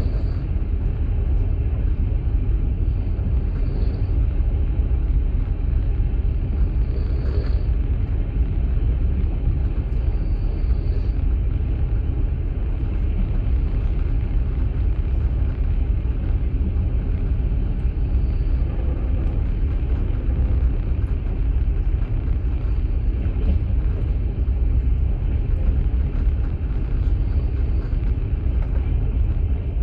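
Inside a moving passenger train's open-plan sleeping carriage: the steady, low rumble of the carriage running along the line.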